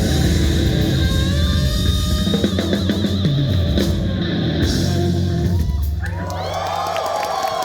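Live rock band playing loudly with a heavy drum kit and bass; the song ends about six seconds in and the crowd starts cheering and shouting.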